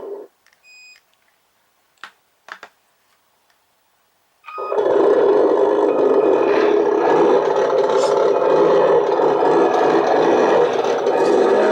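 Simulated diesel engine sound from an RC truck's sound unit: it stops abruptly, a short beep and a few clicks follow in near silence, then after another short beep the diesel sound starts up again about four and a half seconds in and runs on steadily.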